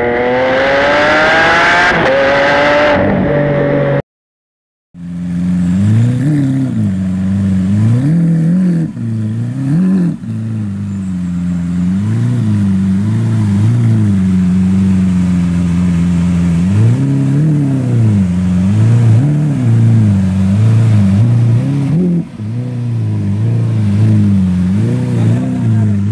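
Lamborghini Aventador LP700-4's V12 with a factory racing exhaust, revving hard with its pitch climbing for about four seconds, then cutting to a second of silence. After the gap the engine runs at lower revs, its note rising and falling again and again with the throttle.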